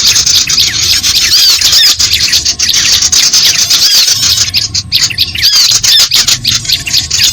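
Recording of wild bird calls used as a bird lure: a dense, continuous chatter of rapid high chips, with a curved, looping high call recurring every second or two.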